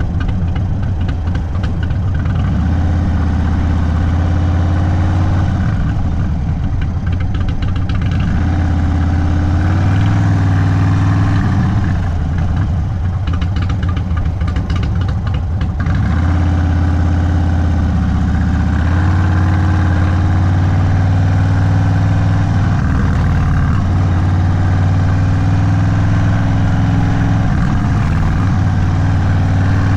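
Indian Sport Chief's V-twin running through a Sawicki Speed aftermarket exhaust at low road speed. The engine note rises and falls several times as the throttle is rolled on and off.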